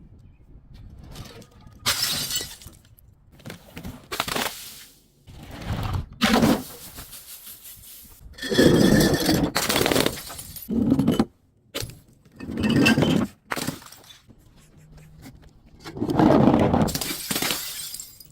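Glass bottles breaking and shattering in about six separate crashes, some short and some drawn out into a second or two of crunching.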